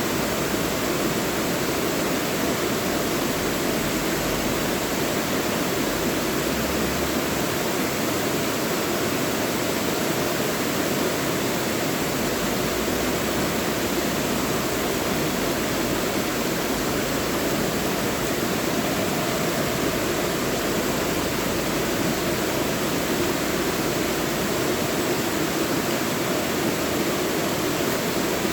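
Mountain valley stream flowing: a steady, even rushing of water.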